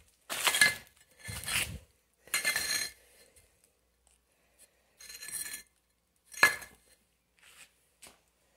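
A steel mason's trowel scraping and clinking against mortar and brick in a series of short strokes, with one sharper clink about six and a half seconds in.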